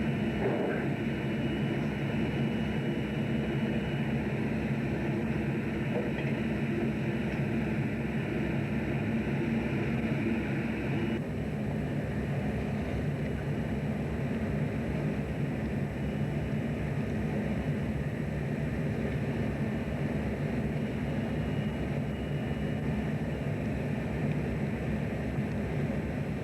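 Fishing boat's engine running steadily: a continuous drone with an even low throb, its sound shifting slightly about eleven seconds in.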